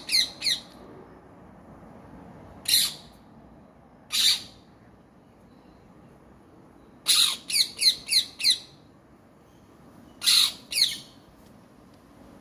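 Parrot squawking in short, harsh calls that come in scattered groups: a couple at the start, single calls a few seconds apart, a quick run of about five in the middle, and two more near the end.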